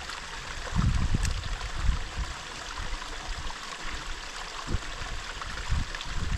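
Mountain stream running over rocks, a steady rushing of water, with a few low rumbles on the microphone.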